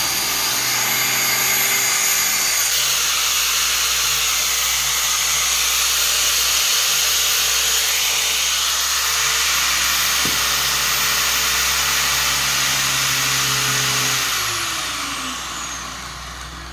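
Makita angle grinder, its burnt copper winding repaired, running at full speed with a steady high whine. It is switched off about fourteen seconds in and winds down, the whine falling in pitch.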